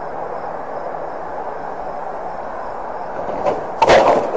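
A train running with a steady rumbling noise, then a sudden loud burst of noise near the end.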